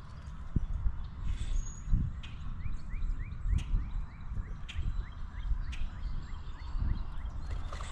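Outdoor birds at a water bowl: a quick series of about six short rising chirps a little under halfway in, with scattered sharp taps over a low, uneven rumble.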